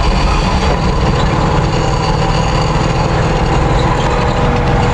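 Chevrolet 427 big-block V8 gas engine with a four-barrel carburettor in a 1979 Chevy C70 dump truck, running loud and steady as the truck drives at speed.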